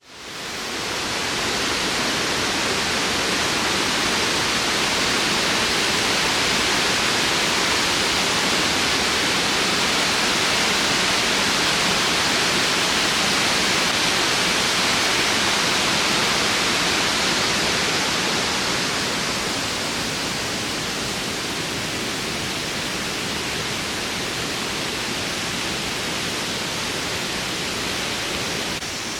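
Steady rushing noise of a waterfall's falling water, fading in at the start and settling a little quieter about two-thirds of the way through.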